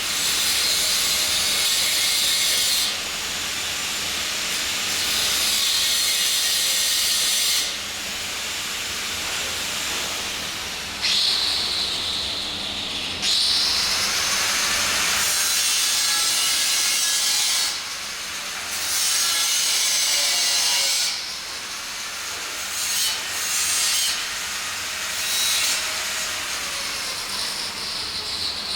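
Welding arc hissing and crackling in repeated runs of a few seconds each, stopping and restarting, with a few shorter bursts near the end.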